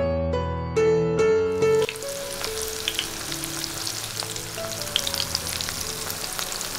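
Spice-coated soya chunks frying in hot oil in a kadhai: a steady sizzle with scattered crackling pops. Piano music plays over the first two seconds, then fades out.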